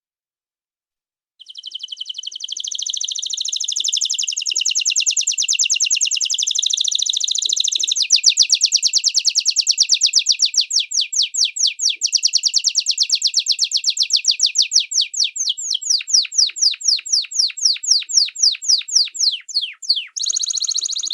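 A small songbird singing a long, high, fast song: a dense continuous warble at first, then a rapid run of sharply repeated notes, several a second. It starts suddenly after about a second and a half of silence and breaks off briefly near the end before resuming.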